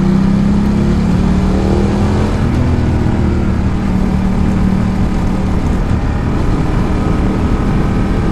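Ducati Multistrada 1200's V-twin engine running at steady road speed, with wind and road noise on the rider's microphone.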